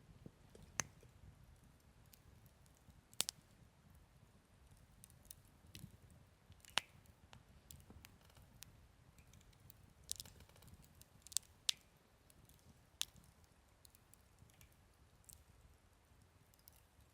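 Wood campfire crackling: sparse, sharp pops and snaps every second or few seconds, over a faint low rumble.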